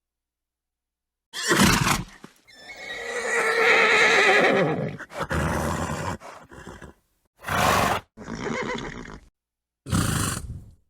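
Horse neighing: one long whinny of about three seconds that trails off, with short breathy snorts before it and twice after, separated by silent gaps.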